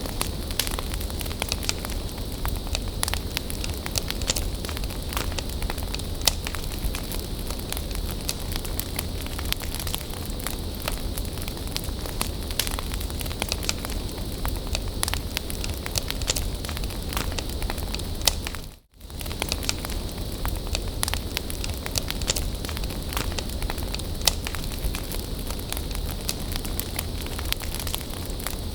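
Wood bonfire burning, crackling with frequent sharp pops over a steady hiss. The sound cuts out for a split second about two-thirds of the way through.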